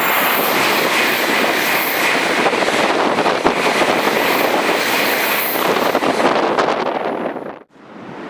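Shinkansen bullet train passing close by at speed: a loud, steady rush of wheel and air noise with a hissing edge, cutting off suddenly near the end.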